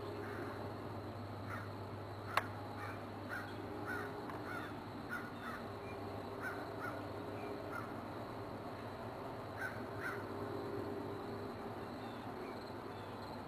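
A bird calling over and over in short calls, two or three a second, stopping about ten seconds in, over a steady low hum; a single sharp click a little over two seconds in.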